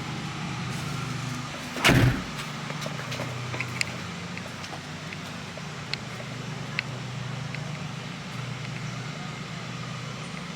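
Car engine running with a steady low hum. A single loud thump comes about two seconds in, and there are a few faint clicks later.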